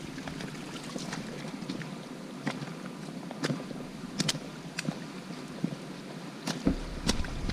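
Footsteps of a hiker on a wet, rocky, slippery trail: irregular clicks and knocks at a walking pace, over a steady outdoor hiss. A low rumble, like wind on the microphone, comes in near the end.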